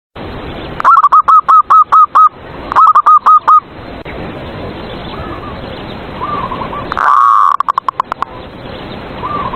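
Zebra dove (perkutut) singing: runs of quick, evenly spaced cooing notes, then a louder drawn-out coo about seven seconds in followed by a fast trail of short notes.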